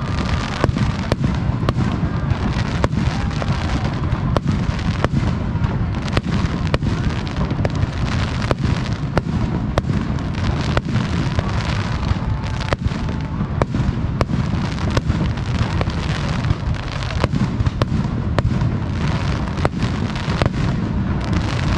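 Aerial fireworks display: a dense barrage of shells bursting, with sharp cracks one to two a second over a continuous low rumble of booms.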